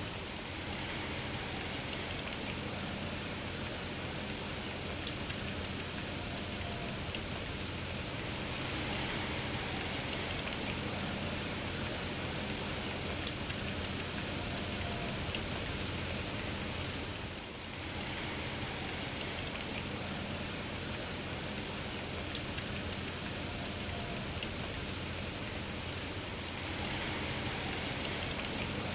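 Steady rainfall, an even hiss of many drops, with three sharp single ticks of drops striking close by. The rain briefly dips a little past halfway.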